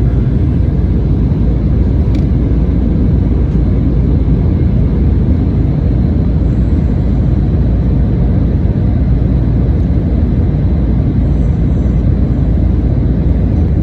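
Steady low engine and airflow noise inside an airliner's passenger cabin as it climbs after takeoff.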